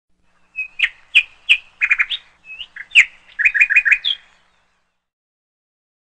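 Bird chirping: quick, high chirps and short whistles in two runs of about two seconds each, over a clean background with no other noise.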